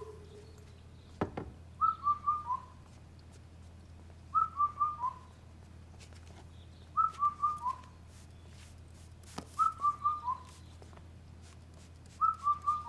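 Mobile phone ringtone: a whistle-like phrase of four quick, slightly falling notes, repeated about every two and a half seconds, five times, until the call is answered.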